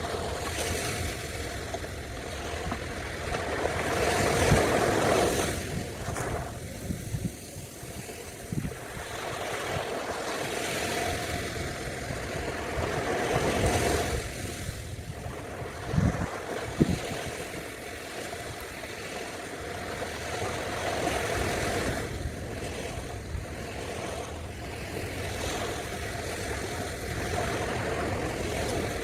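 Ocean surf breaking and washing on a beach, swelling about every eight or nine seconds over a steady rush of water, with a couple of short low knocks partway through.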